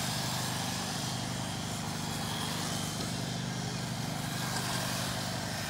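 Several electric Redcat Lightning STK RC stock cars racing in a close pack, their motors and tyres making a steady, unbroken running sound.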